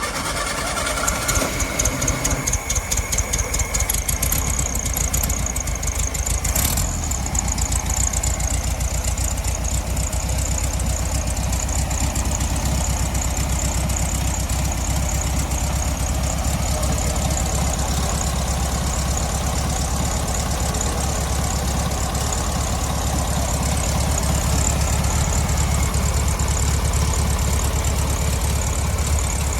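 A Volkswagen car engine, just started, runs unevenly for the first couple of seconds and then settles into a steady idle.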